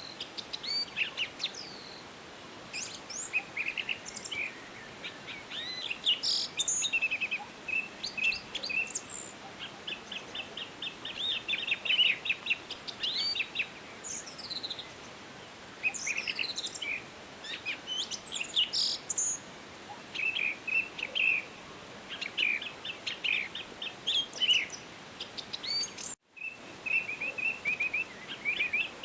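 Several songbirds singing and calling in a forest, with quick chirps and rapid trills overlapping one another over a soft, steady hiss. Near the end the sound cuts out completely for an instant.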